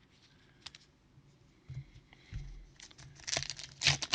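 Crinkling and tearing of trading-card packaging, starting about three seconds in after a few faint clicks.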